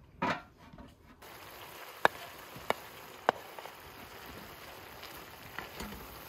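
A short clatter as a metal pot is set down on a wood-burning stove, then grated beetroot and tomato frying in a cast-iron pan: a steady sizzle with three sharp clicks a little over a second apart.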